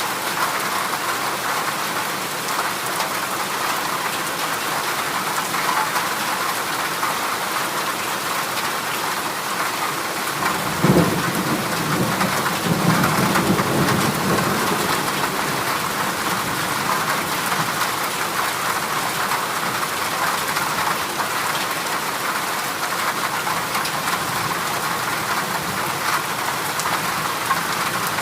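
Heavy rain falling steadily on a corrugated zinc roof. About eleven seconds in, a low roll of thunder rises and fades away over a few seconds.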